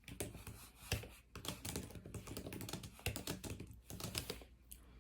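Cornstarch crunching: a dense, irregular run of crisp crackles and clicks, sharpest about a second in and again near three seconds.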